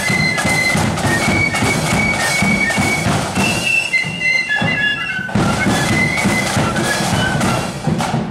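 Marching flute band playing a tune, high flutes carrying the melody over steady drumming, the drums briefly dropping out for about half a second a little before the middle.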